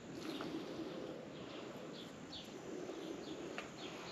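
Small bird chirping: short, high, falling chirps repeated about twice a second over faint background noise, with a couple of faint clicks.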